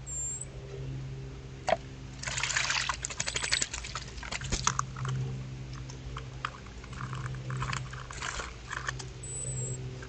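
Water splashing and slopping in a shallow water bowl in irregular bursts, as an animal disturbs the water. A brief high squeak comes near the start and again near the end.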